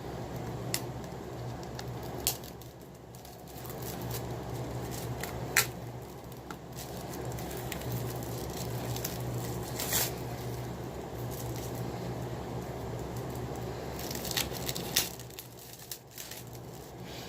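Handling of DVD box sets and their packaging: a few sharp clicks and crinkles over a steady low hum.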